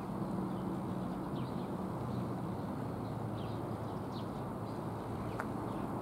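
Small birds giving short, high, falling chirps several times over a steady low background hum. A single sharp click comes near the end.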